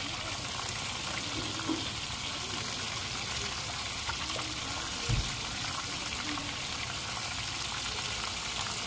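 Steady sizzle of food frying in oil, with one low thump about five seconds in.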